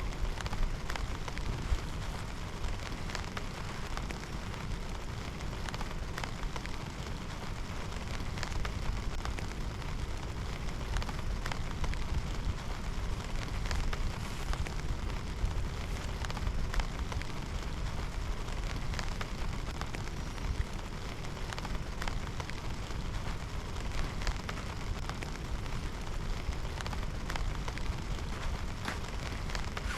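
Heavy rain falling steadily, with many individual drops striking a hard surface close by as scattered sharp taps, over a steady low rumble.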